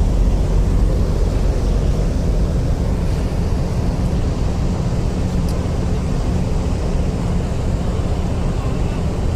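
Ship diesel engines running with a steady low rumble, as a tug and a large ship manoeuvre in harbour.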